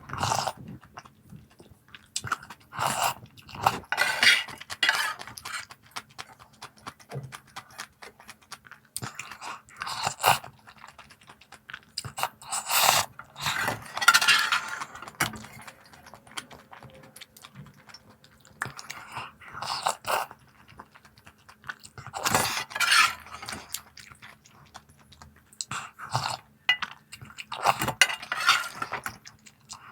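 Close-up crunching and chewing of crisp snacks, in bouts every few seconds with short pauses between bites.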